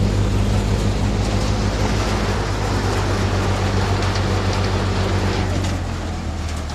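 Tractor engine running steadily while driving a groundnut threshing machine, a low engine hum under the broad noise of the machine at work. It grows somewhat quieter near the end.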